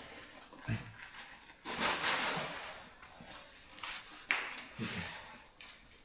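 Irregular scrapes, scuffs and knocks of people and gear moving over rock in a mine passage. The longest scrape comes about two seconds in, with sharp clicks later on.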